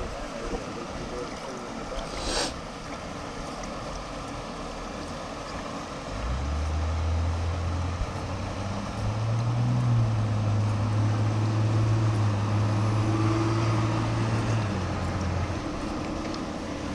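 A low engine hum comes in about six seconds in, rises a step in pitch a few seconds later, holds steady, then drops back and fades near the end, over a steady background hiss. There is one sharp click a couple of seconds in.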